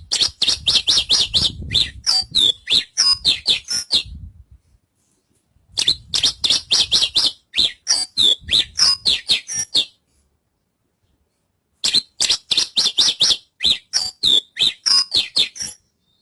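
Horsfield's bush lark (branjangan) singing: three phrases of rapid, high chattering notes, several a second, each lasting about four seconds and separated by short pauses.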